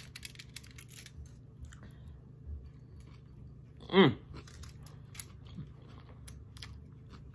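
A man biting into and chewing a fish taco close to the microphone: a run of small, quiet mouth clicks, with a short hum of the voice about four seconds in.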